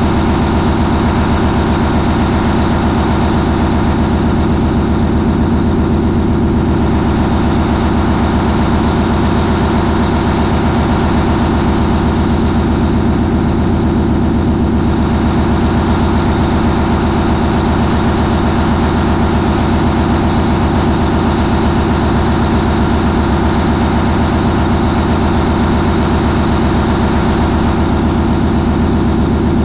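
MAN 20V28/33D STC V20 marine diesel main engine running steadily at 940 RPM, a loud, even drone with no change in speed.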